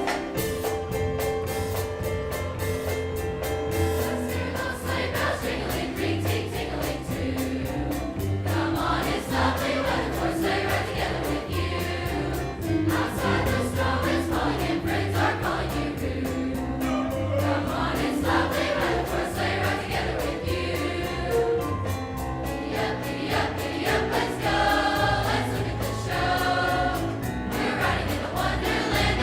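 High school choir singing with instrumental accompaniment under it.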